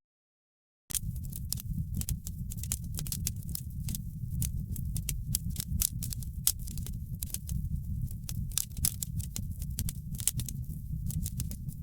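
Wood fire in a fireplace crackling, with dense irregular sharp pops and snaps over a steady low rumble of the flames. The sound drops out to dead silence for about a second at the very start, then resumes.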